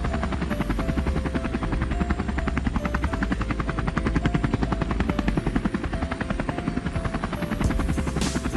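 Helicopter rotor sound: a rapid, even chopping over a steady low rumble, with a faint stepped tune running underneath.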